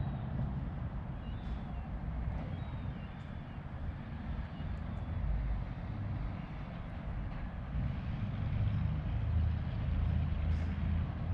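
Low rumble of road traffic that grows louder in the last few seconds, as a vehicle draws near.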